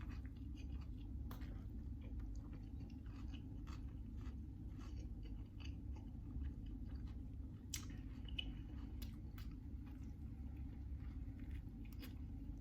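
A person chewing a mouthful of club sandwich with crunchy vegetables close to the microphone, with many small crunches and clicks scattered through it, over a steady low hum.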